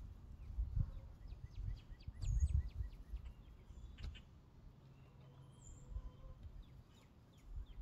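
Small wild birds chirping, with a quick run of short high chirps about two seconds in, over wind rumbling on the microphone. A single sharp click sounds about four seconds in.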